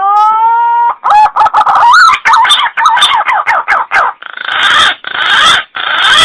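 Recorded green pigeon (punai) lure call played loud. It opens with a rising whistled note, then quick warbling notes, then three harsh grating notes.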